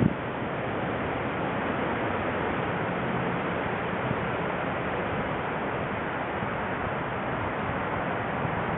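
Steady rushing wind noise, even and without distinct gusts.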